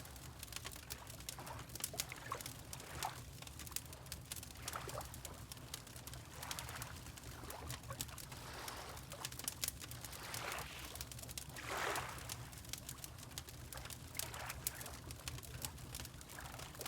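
Fireplace crackling with soft water lapping and a steady low rumble underneath, while a bird calls now and then.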